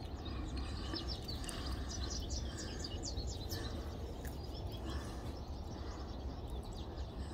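Small birds chirping: a quick run of short high chirps in the first half, over a steady low background rumble.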